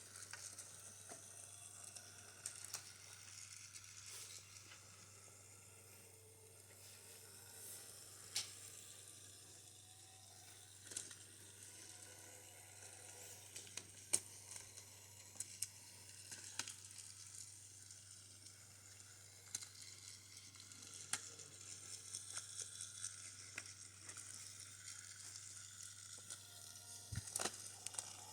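Faint steady hiss with scattered light clicks and taps, irregularly spaced every second or two, from wooden toy train track pieces being handled and fitted together.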